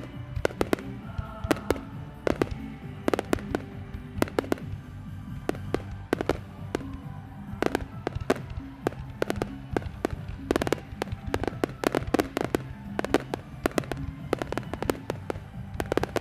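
Aerial fireworks bursting in a rapid, irregular string of sharp bangs and crackles, with music playing underneath.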